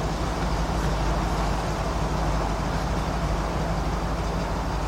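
2003 Jeep Liberty's 3.7-litre V6 engine running steadily, with a severe misfire that makes the check engine light flash.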